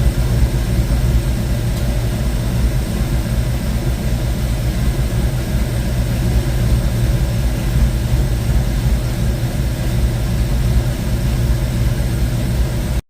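1972 Ford Mustang Mach 1's V8, fitted with a Crane 2040 cam and a Black Widow Venom muffler on a single 3-inch exhaust, idling steadily with a deep, even rumble. The sound cuts off suddenly near the end.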